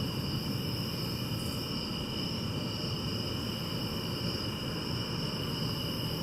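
Steady chorus of crickets, a continuous high trill with no breaks, over a low, even rumble of background noise.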